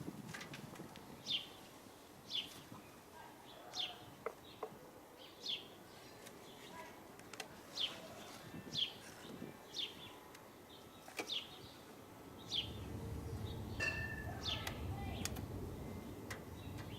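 A songbird repeating a short, high, downward-slurred chirp about once a second. About twelve seconds in, a steady low rumble comes in beneath the calls.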